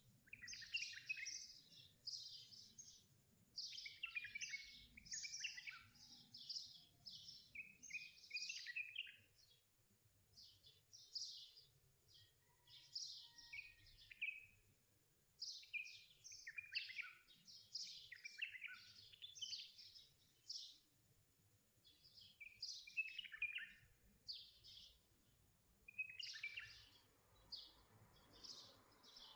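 Small birds chirping and singing: quick clusters of short, high notes that keep returning with brief pauses, quiet overall.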